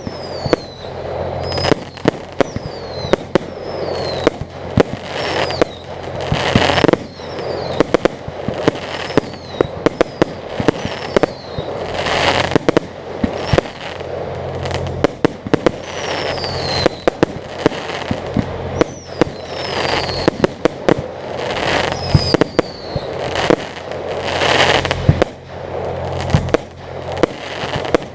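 Fireworks display: a rapid series of sharp bangs with swells of crackling and short falling whistles, over a steady low hum.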